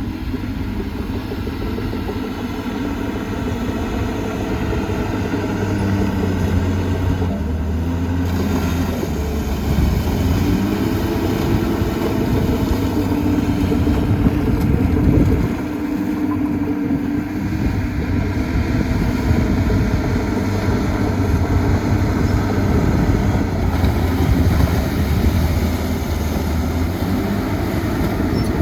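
Heavy diesel engine of earthmoving machinery running under load, its note rising and falling as the machine works, over a steady low rumble.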